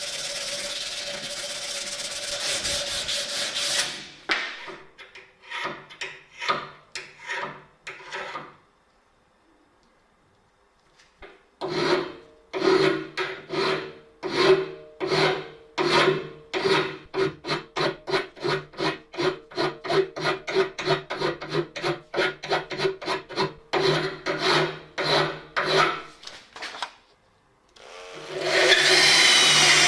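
Rhythmic back-and-forth hand rubbing strokes on a BMX bike part during its restoration, about two a second, with a pause of a few seconds in the middle. A steady noise fills the first few seconds, and a loud power tool starts near the end.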